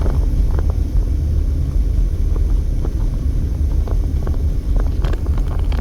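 Steady low road rumble inside a moving car's cabin as it drives over a bumpy road, with scattered small knocks and rattles from the jolts.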